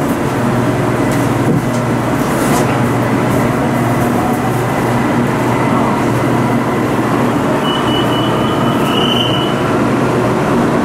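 BTS Skytrain electric train running, heard from inside the carriage: a steady rumble and hum from motors and wheels on the track. A thin high squeal rises briefly about eight seconds in.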